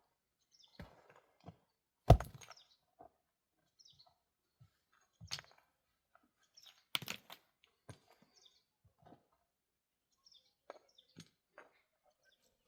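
Scattered knocks and clatters at irregular intervals, the loudest about two seconds in and another about seven seconds in, with faint short bird chirps between them.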